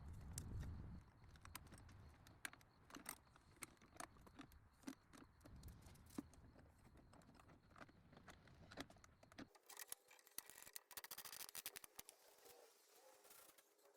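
Faint, scattered clicks and taps of small hand work at near-silent level. About two-thirds of the way in, a denser run of fine clicking takes over.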